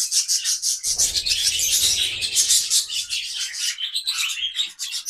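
A flock of budgies chattering, with many fast overlapping chirps. A low rumble sits underneath from about a second in.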